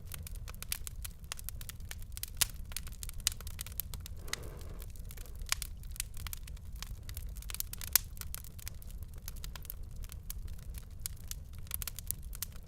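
Wood fire crackling: dense, irregular sharp pops and snaps over a steady low rumble, with one louder pop about eight seconds in.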